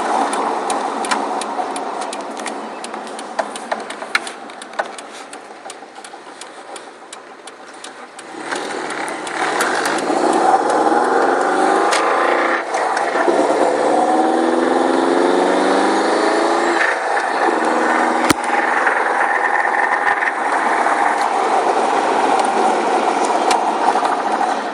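Subaru WRX's turbocharged flat-four engine, which has a rod knock from a failing connecting-rod bearing, heard while driving. At first it is quieter with scattered sharp clicks. About eight seconds in it accelerates with rising pitch, then runs steadily under load.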